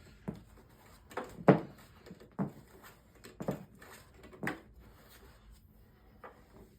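A series of knocks and clatters, roughly one a second, the loudest about one and a half seconds in, from handling the power cord of a 1992 Eureka ESP upright vacuum cleaner while it is unwound for plugging in; the vacuum's motor is not running.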